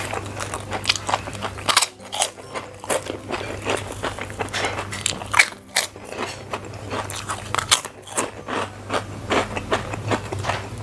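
Mouth chewing and crunching crisp kerupuk crackers together with a mouthful of fried flat rice noodles: many short, sharp crunches at an uneven pace.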